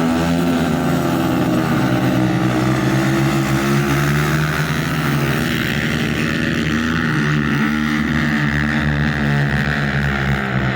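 Small dirt bike engines running hard, the engine pitch wavering up and down as the throttle is worked.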